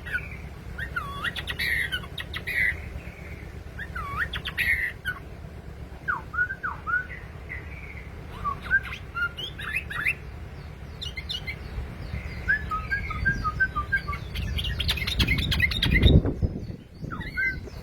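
Yellow-vented bulbul (trucukan) singing short, bubbly whistled phrases again and again, over a low steady hum. A louder rumbling noise comes near the end.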